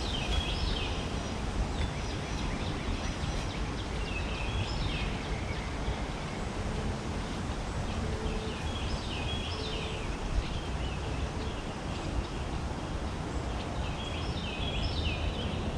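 Outdoor ambience: a steady low rumble like wind on the microphone, with a bird calling in short groups of high notes every few seconds.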